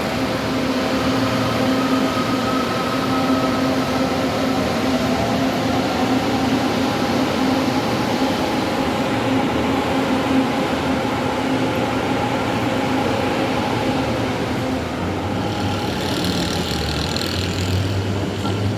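LRT Line 2 electric train running: a steady rumble with a constant hum, and a hiss coming in near the end.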